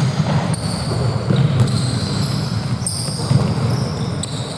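Indoor basketball game: sneakers squeaking on the court in short high chirps, with the ball bouncing and a steady hall rumble of players and spectators.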